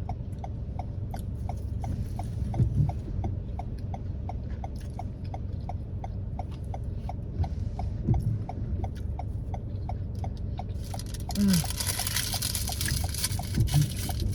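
Car turn-signal indicator ticking steadily, about three ticks a second, over the low rumble of the car cabin. A hiss of noise comes in about eleven seconds in.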